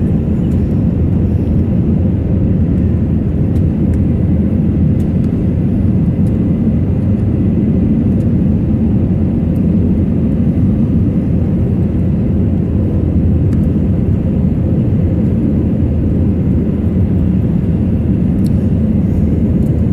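Airliner cabin noise: a steady, loud low rumble of the jet engines and airflow, heard from a passenger seat.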